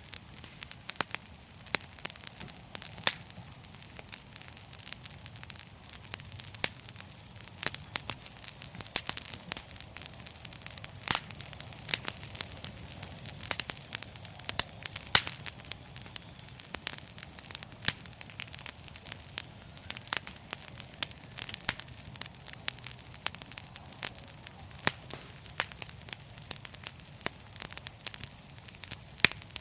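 Wood fire crackling: dense, irregular sharp pops and snaps over a soft steady hiss and low rumble of the flames.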